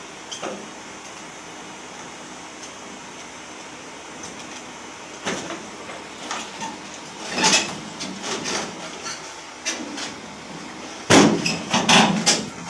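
Irregular knocks and clanks of hard objects striking, sparse at first and then a dense, loud cluster near the end.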